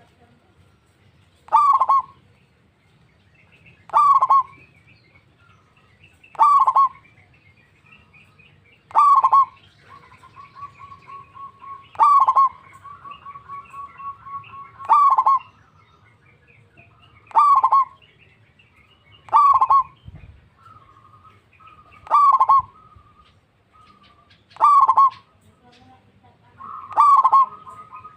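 Zebra dove (perkutut) calling over and over, a short loud call about every two and a half seconds. Fainter, rapid trilling coos run between the calls.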